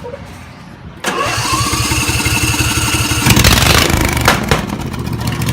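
Straight-piped 23 hp Briggs & Stratton lawn tractor engine being cranked over by its starter about a second in, with a rising whine. It catches and fires up loudly about three seconds in, then settles into a fast, even, rumbling run.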